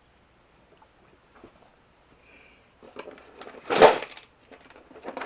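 Hand tools being handled while someone searches for one that fits: scattered light clicks and knocks, with one loud clattering knock about four seconds in.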